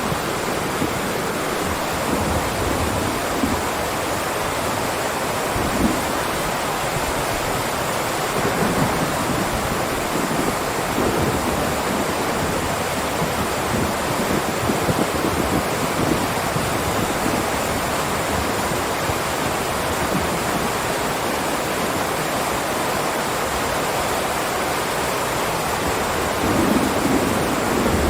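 Heavy rain downpour: a steady, dense hiss of falling rain, with brief low swells about six seconds in and again near the end.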